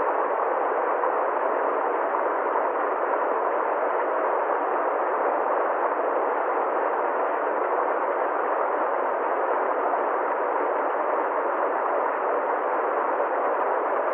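Water flowing down a valley stream, a steady unbroken rush.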